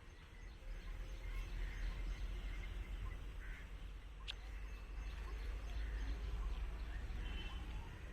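Outdoor ambience with faint bird calls over a steady low rumble.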